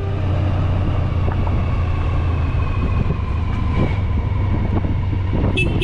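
Honda ST1100's V4 engine running steadily under way, with wind and road noise, heard from on the moving motorcycle. A brief higher tone sounds near the end.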